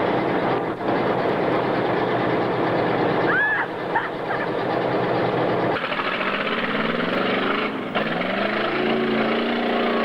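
Mud-bog truck engine running hard at high revs, loud and dense. About six seconds in it gives way to a lower engine note that climbs in pitch as it revs up.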